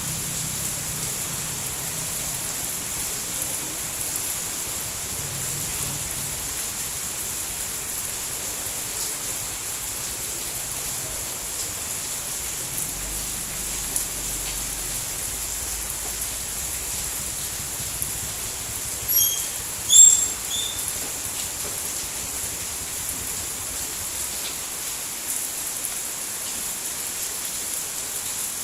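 Steady rain falling, an even hiss. About two-thirds of the way through, a few short high-pitched chirps are briefly the loudest thing.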